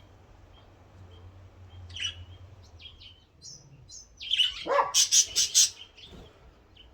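Birds chirping with short, high chirps, then about four seconds in a loud, harsh call: a falling squawk followed by five or six rapid raspy notes over about a second and a half.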